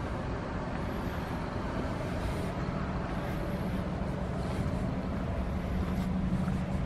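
A car driving, with a steady low engine hum and road noise.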